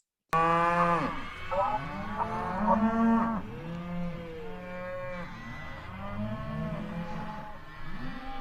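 A recording of cattle mooing: a string of long, drawn-out moos, several overlapping, that starts abruptly just after the beginning.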